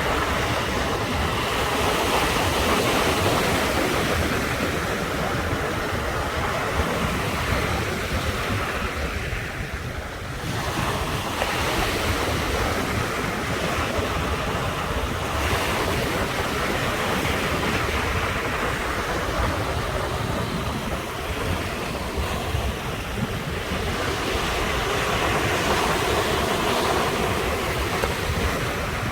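Sea waves breaking on the shore in a continuous wash that swells and eases, with a brief lull about ten seconds in. Wind rumbles on the microphone.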